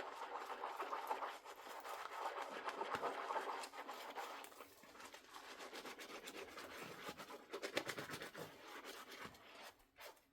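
Dishes being scrubbed by hand with a sponge: an uneven scratching and rubbing with small clicks, easing off and picking up again through the stretch.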